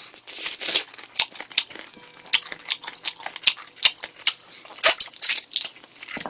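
Close-miked chewing of smoked chicken: a quick, irregular run of mouth clicks and smacks.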